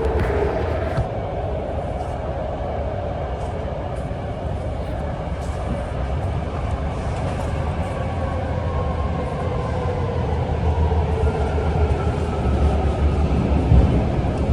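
BART train running on the rails, heard from inside the car: a steady low rumble with a faint motor whine that slowly falls in pitch, then a higher whine rising near the end as the rumble grows louder.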